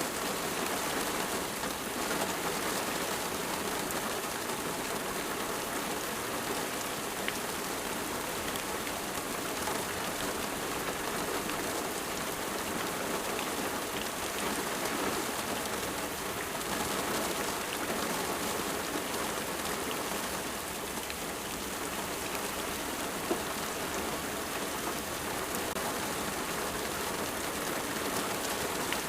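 Steady rain falling, a dense patter of drops on surfaces with a few sharper individual drips.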